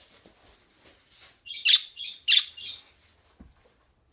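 Pet birds giving a string of short, sharp, high calls, about five in quick succession around the middle.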